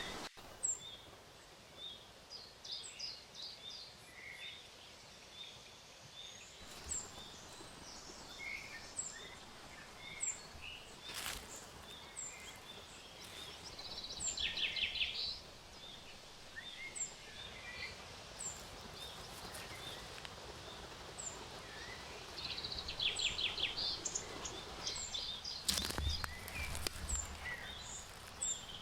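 Forest birdsong: one bird repeats a short, high note every second or two, while others break in several times with quick trills. A brief rustling burst comes near the end.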